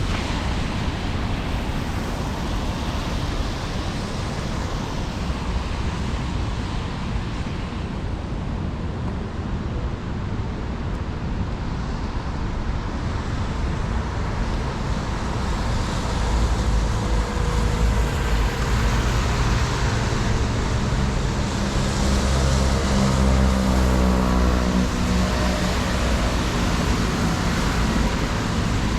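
City street traffic: a steady wash of passing vehicle noise, with a heavier engine rumble building about halfway through as a large vehicle draws close.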